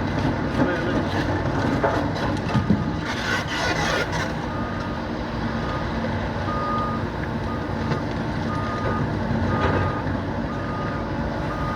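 Heavy excavator engine running steadily while a reversing alarm beeps with a single high tone about once a second. A few knocks come a couple of seconds in, followed by a second-long rattle.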